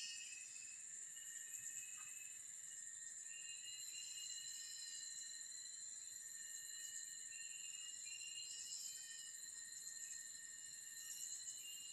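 Forest insect chorus: crickets trilling steadily at several high pitches at once, with short chirps repeating every two to three seconds.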